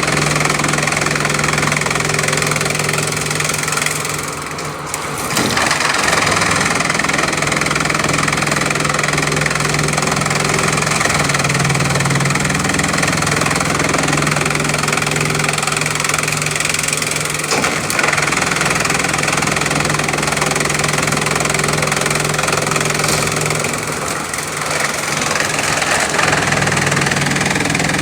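Bamboo chipping machine running steadily under load: an engine hum under a dense noise of chipping. It eases off briefly twice, about four and a half seconds in and again near twenty-four seconds.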